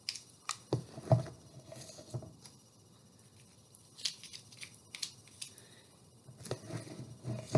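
Scattered light clicks and soft scrapes of a utensil pressing peanut butter into the crevices of a pine cone.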